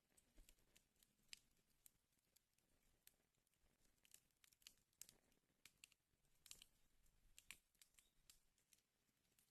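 Wood fire burning in a fireplace, faint irregular crackles and snaps over a soft hiss.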